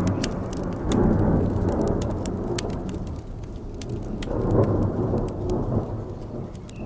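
Rolling thunder with steady rain: a low rumble that swells about a second in and again a few seconds later, then dies away near the end. Sharp crackles and pops from a wood fire sound throughout.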